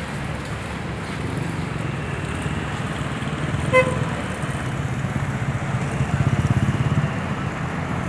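Street traffic: vehicle engines running steadily, with one short vehicle horn toot about four seconds in and a louder engine passing close between six and seven seconds.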